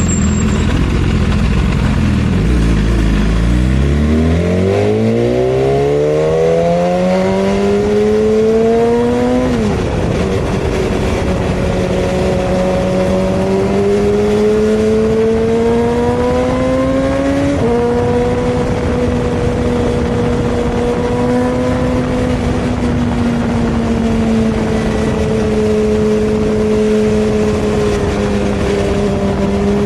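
Superbike engine heard from on board: the revs dip, then climb steadily under acceleration, drop at a gear change about ten seconds in, rise slowly again, step up abruptly around seventeen seconds in, and then hold nearly steady at cruising speed.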